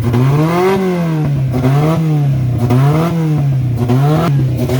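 Car engine being revved over and over, the pitch climbing and dropping back about once a second, four times.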